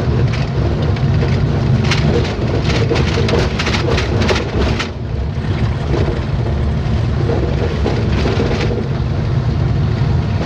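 A vehicle on the move, heard from inside: a steady low engine and road rumble, with a run of quick taps or rattles from about one and a half to five seconds in and a few more near the end.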